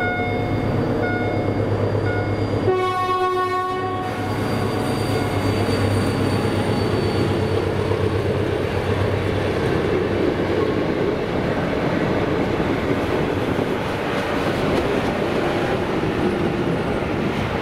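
Level-crossing electronic warning sounder pulsing about once a second over a diesel engine's low hum. About three seconds in, a locomotive horn sounds once for just over a second. Then a retro diesel-hauled passenger train passes over the crossing, its wheels on the rails and engine running steadily.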